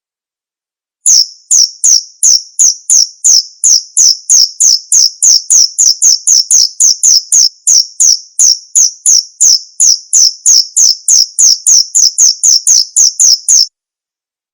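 Male cricket chirping: an even string of short, loud, high chirps, about three or four a second, starting about a second in and cutting off sharply shortly before the end.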